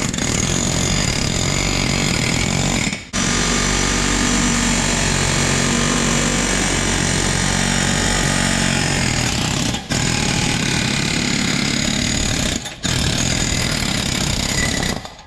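Pneumatic air hammer rattling steadily against a steel pin, driving it out of a ripper mount. It runs in long bursts, with short pauses about 3, 10 and 13 seconds in, and stops just before the end.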